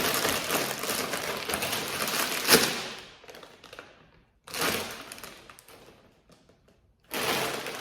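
Close rustling and clicking of food packaging and containers being handled, with a sharp knock about two and a half seconds in. The sound fades out twice and picks up again near the end.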